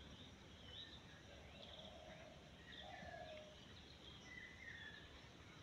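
Near silence, with faint short bird chirps scattered through the background.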